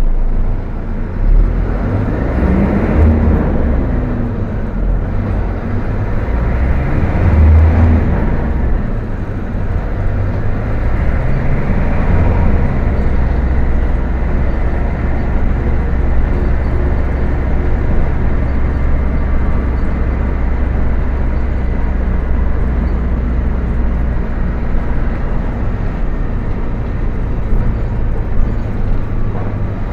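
Volkswagen 17.230 OD bus's diesel engine under way, its pitch climbing and dropping back three times in the first dozen seconds, then holding a steady drone for the rest.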